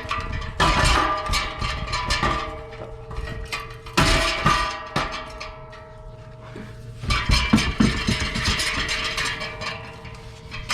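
Metal clanking and knocking from hand work on exhaust pipes and clamps, over music playing in the background.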